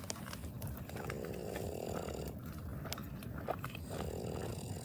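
Campfire crackling with scattered sharp pops, and two longer rough, rasping sounds of uncertain source, about a second in and again near the end.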